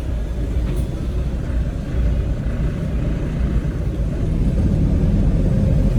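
A motor boat's engines running at low speed with a steady low rumble while the joystick moves the boat sideways off the dock. The rumble grows a little louder about four seconds in.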